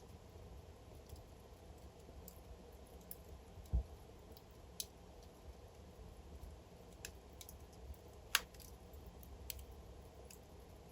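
Wood fire burning in a fireplace: faint, irregular crackles and pops over a low, steady rumble of the flames, with a soft low thud a little under four seconds in and the sharpest pop about eight seconds in.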